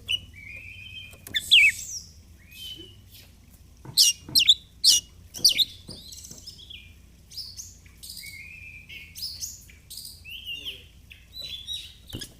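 Oriental magpie-robin singing a varied, rapid song of sharp whistled notes that sweep up and down, delivered in phrases with short pauses between them, over a faint low hum.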